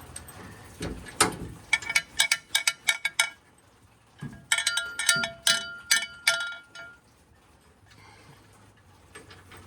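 Hand ratchet clicking in two quick runs of sharp metallic clicks, about six a second, as hitch mounting bolts are run down snug.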